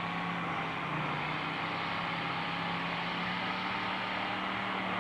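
Demolition-derby truck engines running at steady revs, one low engine note held level throughout over a wide rumble of motor noise.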